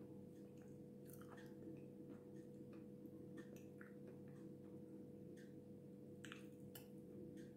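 Faint close-mouthed chewing of a dry, powdery lump of Jasmin, with small crunches and crackles scattered irregularly over a steady low hum.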